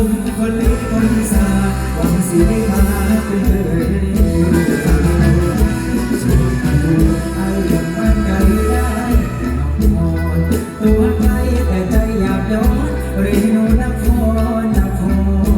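Loud live mor lam band music with a heavy bass line and a steady beat, with singing at times.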